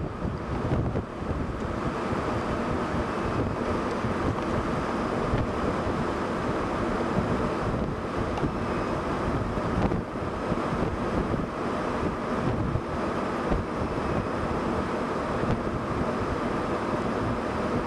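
Strong, gusty wind blasting across the microphone in a steady rush that swells and dips: the rear-flank downdraft winds of a tornadic supercell.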